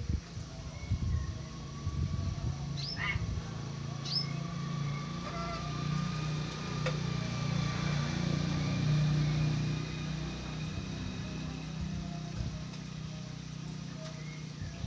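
A low engine hum, like a passing motor vehicle, swelling in the middle and easing off again. Two short, sharp bird calls sweep down in pitch about three and four seconds in, with faint whistles under the hum.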